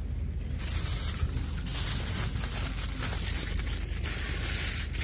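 Crinkling and rustling that starts about half a second in and goes on in uneven surges, over a steady low rumble.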